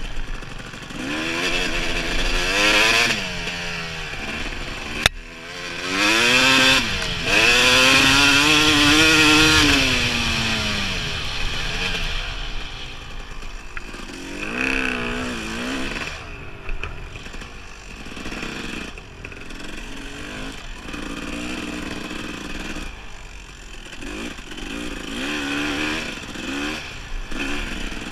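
Dirt bike engine revving up and down as it is ridden, its pitch climbing and dropping again and again, louder in the first half; a sharp click about five seconds in.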